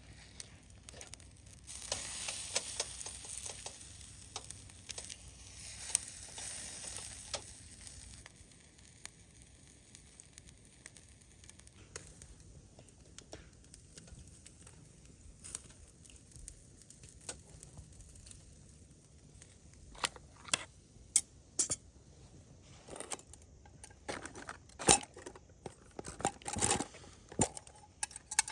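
Food sizzling in a pan over a campfire, loudest in the first several seconds and then fading to a low hiss. Near the end comes a run of sharp clicks and knocks, like utensils against cookware.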